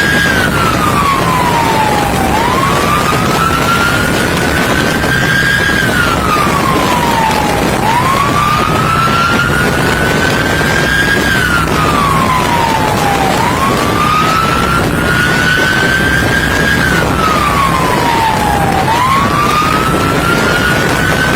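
Police siren on a wail setting, its pitch rising slowly and then falling, repeating about every five and a half seconds, over loud steady wind and road noise with a low engine rumble.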